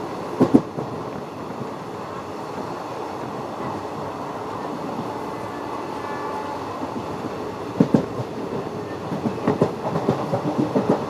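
Kollam Mail express train running on the track: a steady rumble with the clickety-clack of its wheels over rail joints, a couple of clacks about half a second in and a quick run of clacks in the last three seconds.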